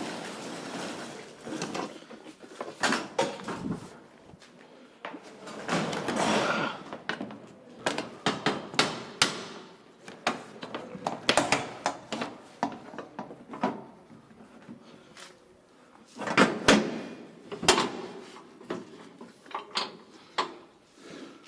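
A series of irregular knocks, clicks and clatters, some close together and some spaced out, with denser bursts about a quarter of the way in and again near three quarters.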